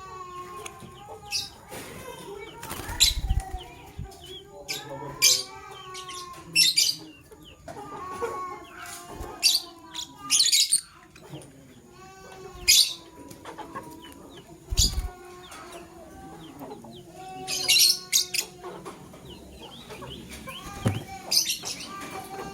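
Lovebirds chirping: sharp, high-pitched shrieking calls repeated every few seconds, with lower, warbling chatter between them. A couple of low thumps are also heard.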